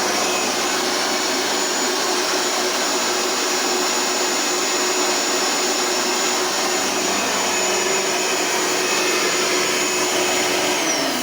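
Bissell Power Partner 800 upright vacuum cleaner's motor running steadily, a rushing noise with a steady high whine on top. Near the end its pitch starts to fall as it winds down.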